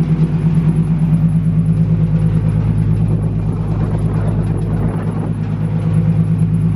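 Big single-turbo 2JZ inline-six in a Nissan Skyline R34, idling steadily on the dyno with an even pulse.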